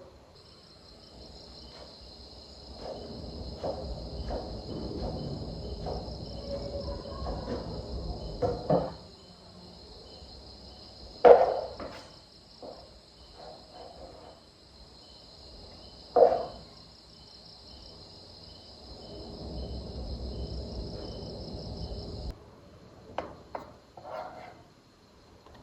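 Insects chirring steadily in a high-pitched band, which cuts off abruptly near the end. Close by there is intermittent rustling and handling noise, with two sharp knocks about eleven and sixteen seconds in.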